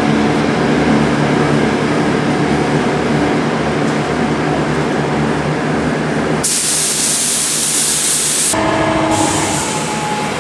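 Steady machine drone with a low hum, and over it the hiss of an air spray gun spraying primer, starting about six and a half seconds in and lasting two seconds, then again briefly near the end.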